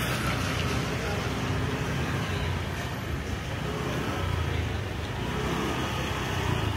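Road traffic: motor vehicles running and passing with a steady low engine hum under continuous road noise.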